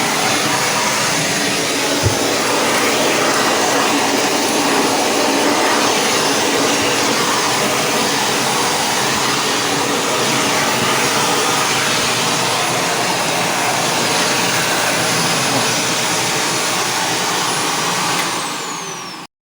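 Shark vacuum cleaner running steadily with a loud, even rush, working again after the whole machine was cleaned. Near the end it starts to wind down, with a falling high whine, before the sound cuts off.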